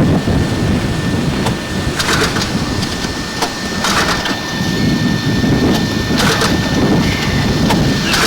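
Wind rumbling on the microphone, with short hissing bursts about every two seconds.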